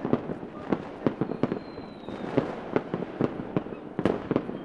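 Fireworks going off: a rapid, irregular string of sharp bangs and pops, several a second, with a thin high whistle from about a second in that drifts slightly down and stops near two seconds.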